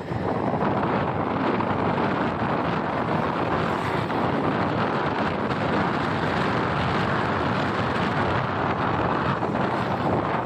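Wind rushing over the microphone of a riding motorbike, with engine and road noise beneath, steady and unbroken.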